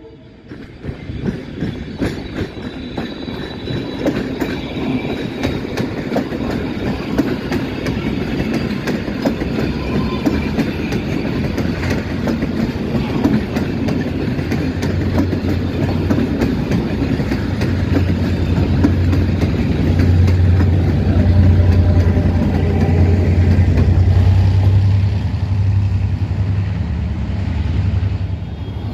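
Passenger train rolling past close by, its wheels clicking steadily over the rail joints. A low drone builds through the second half, is loudest a little past the middle, and eases near the end.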